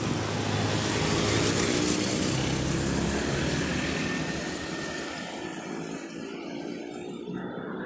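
A motor vehicle's engine droning past over road and wind noise, growing a little louder in the first couple of seconds and then fading away after about five seconds.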